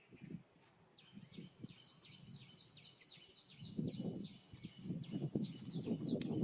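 A bird calling a rapid run of short, falling chirps, about four or five a second, beginning about a second in. Underneath, a crackling rustle grows louder from about halfway through.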